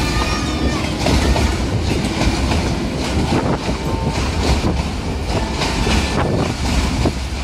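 Passenger train running along the track: a steady rumble with wheels clattering irregularly over the rails.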